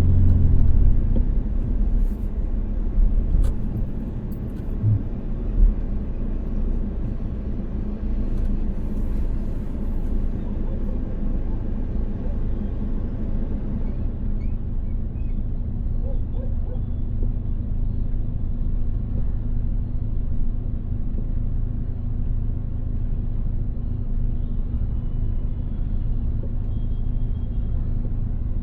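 A car driving, with steady low road and engine rumble and a few sharp thumps in the first six seconds.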